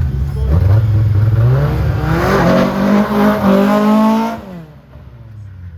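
Car engine accelerating hard at full throttle, its pitch climbing for about four seconds, then dropping sharply as the sound fades away.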